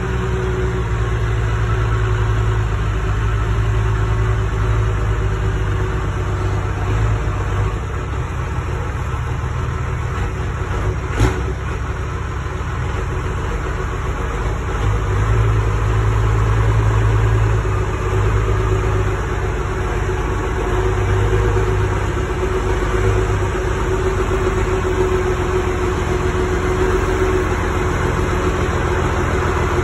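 Monster truck engine running at low throttle, idling and swelling a little now and then as the truck creeps along. One sharp knock sounds about eleven seconds in.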